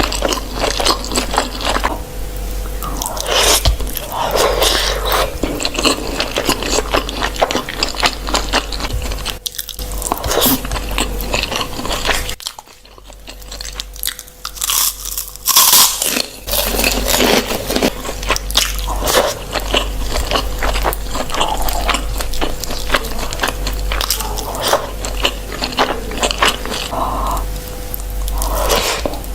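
Close-miked eating: a person biting and chewing crunchy food, with a steady run of crisp crunches and mouth sounds. It drops off briefly about halfway, then picks up again with a loud crunch.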